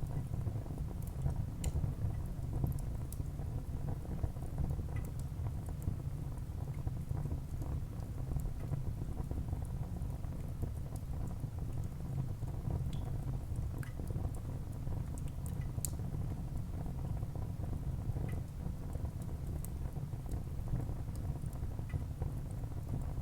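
Wood fire burning in a fireplace: a steady low rumble of flames with scattered small crackles and pops from the burning logs.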